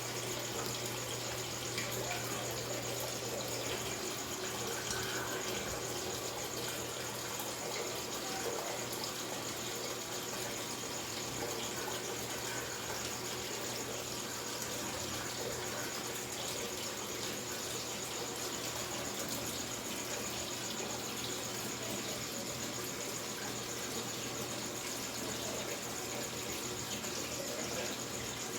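Consul Facilite 8 kg top-loading washing machine filling with water for its first rinse: a steady rush of water pouring into the tub over a low steady hum.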